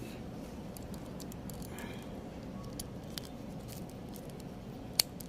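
Faint handling noises and light clicks over a steady low background noise, ending in one sharp click: a scooter's replacement voltage regulator being fitted by hand.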